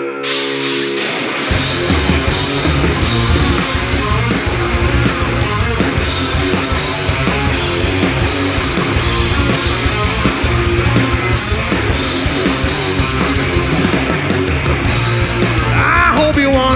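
Live rock band playing the loud instrumental intro of a song with distorted electric guitars; the band comes in right at the start and bass and drums join about a second and a half in. A singer's voice enters near the end.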